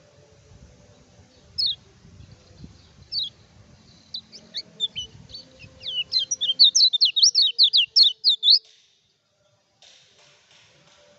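Kecial kuning singing: a few single sharp, falling whistled notes, then a fast run of rising-and-falling twittering notes that builds up and stops abruptly just before nine seconds in.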